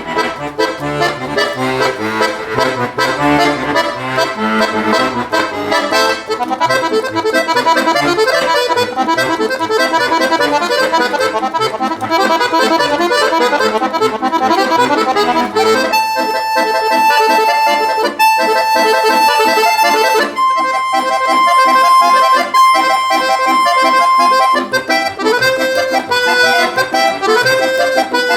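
Solo accordion playing an arrangement of a Russian folk song: a busy run of quick notes, then from about halfway long held chords over a steady bass, moving into a slower stepping melody near the end.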